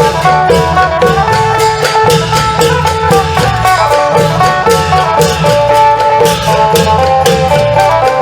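Isan folk band music: a phin (plucked Isan lute) playing a quick melody with bent notes over long drums (klong yao) and percussion keeping a steady driving beat.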